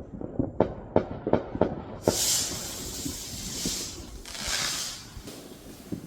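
Fireworks outside: several sharp firecracker pops, then about two seconds in a loud hiss lasting around two seconds, and a second, shorter hiss a little later.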